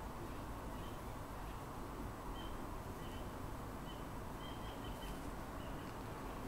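Faint bird chirps: short high notes repeated irregularly about once a second, over a steady low background hiss.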